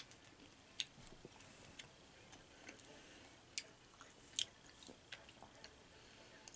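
Faint chewing of a yogurt-coated grape Skittles candy: a sharp little crunch or click about once a second, with the strongest a little past the middle.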